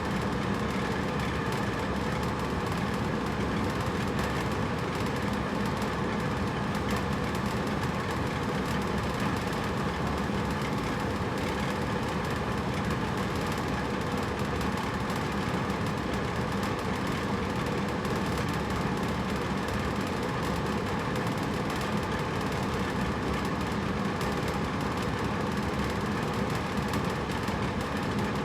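Hotel room air conditioner running steadily: an even hum and rush of airflow with a few faint steady tones and no changes.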